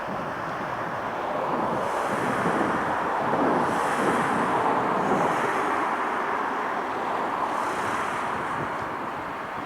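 Jet noise from an Airbus A330-300's Rolls-Royce Trent 700 engines, swelling to a peak about four seconds in and then slowly fading, with wind on the microphone.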